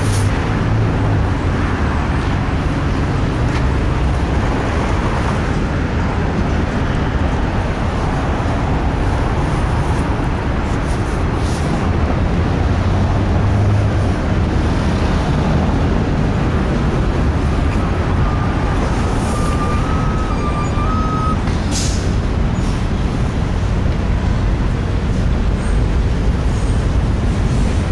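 Norfolk Southern intermodal freight train rolling past: a steady, loud rumble of wheels on rail. A faint thin squeal comes in for a few seconds about two-thirds of the way through.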